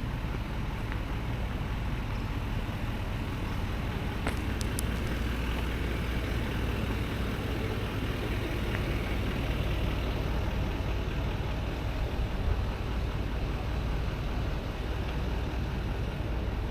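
Steady low rumble of a vehicle on the move, engine and road noise, with a couple of faint ticks about four seconds in.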